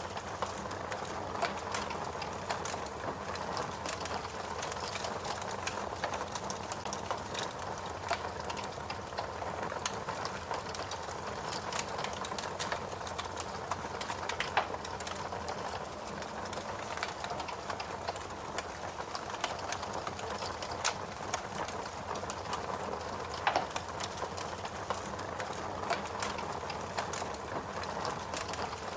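Wood fire crackling: a steady hiss with many small snaps, and a couple of louder pops, one about halfway through and one later on.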